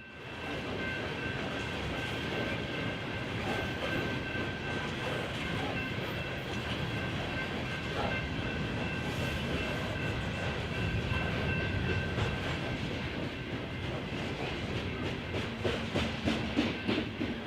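Freight train rolling past at speed: a steady rumble of steel wheels on rail, with a thin high whine through the first half. Near the end come a run of rhythmic clicks as wheels cross rail joints.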